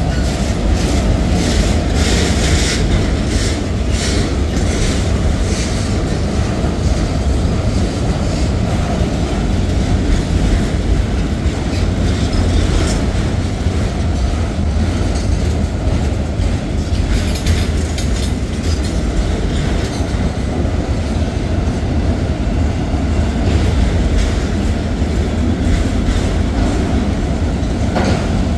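Autorack freight cars rolling past: a steady low rumble of wheels on rail, with a run of clicking as wheels cross rail joints during the first few seconds.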